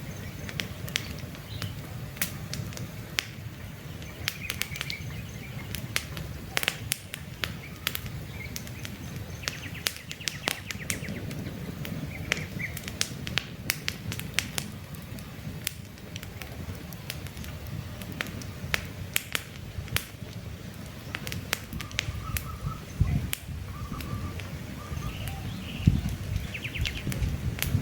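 Campfire crackling, with frequent sharp pops over a steady low rush of flame. Birds chirp briefly now and then in the background.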